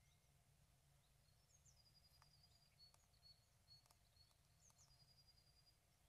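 Near silence with faint, thin, high-pitched bird calls: short gliding notes and a few held whistles, with a couple of soft clicks in the middle.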